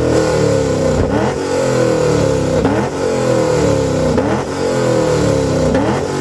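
A car's engine and exhaust being revved hard again and again. The pitch jumps up sharply about four times, roughly every second and a half, and falls back between revs.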